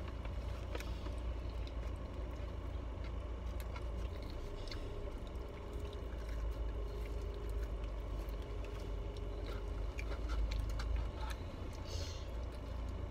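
Quiet eating inside a car: faint chewing and small clicks and rustles over a steady low rumble of the car cabin.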